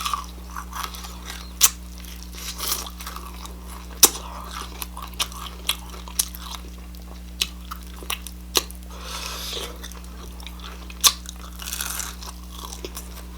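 Close-up mouth sounds of someone eating crispy fried chicken: irregular sharp crunches as the breaded skin is bitten, with wet chewing between them.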